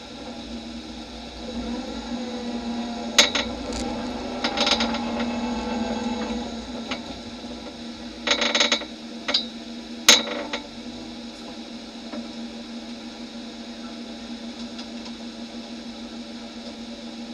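Race car's engine running at low speed, heard as a steady hum from inside its stripped, roll-caged cabin. A handful of sharp knocks and rattles come between about three and ten seconds in.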